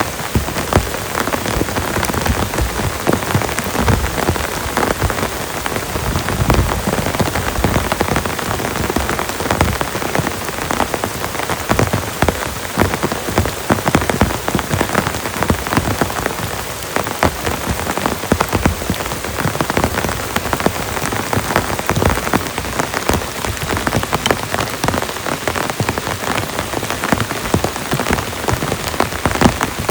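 Heavy rain falling steadily, a dense, unbroken rush of close drop impacts.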